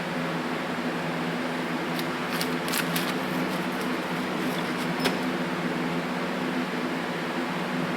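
Steady mechanical hum of a running fan-like machine, with a few light clicks and rustles of small parts being handled about two to three seconds in and again about five seconds in.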